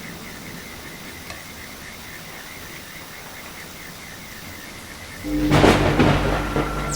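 Steady rain with a faint rhythmic chirping, then about five seconds in a sudden loud thunderclap cracks and rumbles on.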